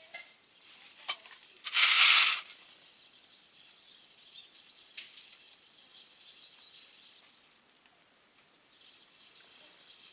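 Small wood fire in a stainless stove ticking and crackling faintly, with a few sharper clicks. About two seconds in comes one loud rustling burst lasting about half a second.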